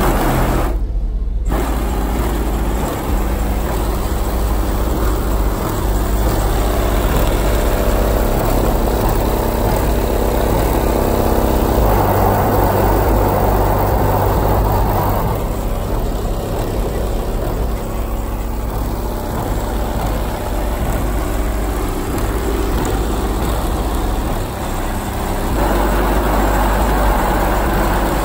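Car engine idling at close range, a steady low rumble.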